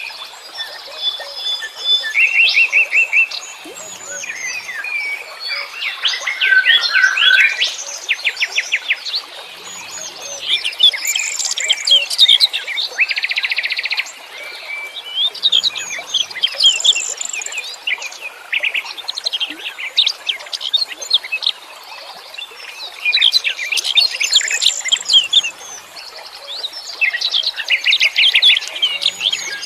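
Wild songbirds singing and chirping in overlapping bursts: fast trills, rapid repeated chips and high whistled notes, over a constant faint hiss.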